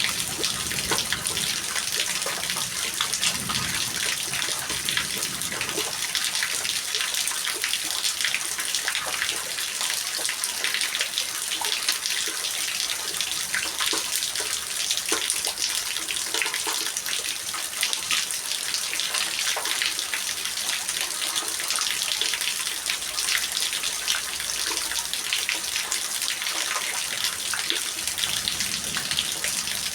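Steady heavy rain: a dense, even hiss made of countless small drop impacts and splashes.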